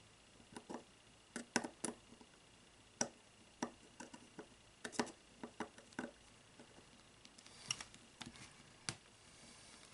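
Irregular small clicks and taps of metal parts being handled while a small screw is fitted into the lens tube of a Weaver J2.5 rifle scope.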